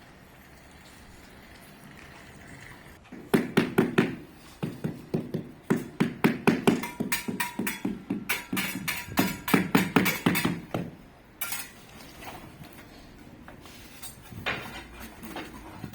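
Rapid hammer-like knocking, several blows a second, starting about three seconds in and lasting some eight seconds, with a shorter burst near the end. This fits ceramic tiles being tapped down into place while they are laid.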